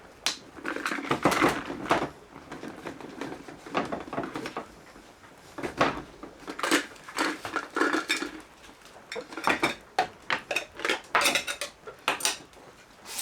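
Camping cookware and utensils clattering and clinking as they are handled and set down: irregular knocks and short rattles.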